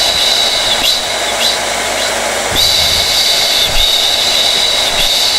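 Hair dryer (blow dryer) running steadily: a continuous rush of air with a high whine. The whine drops away about a second in and comes back about halfway through.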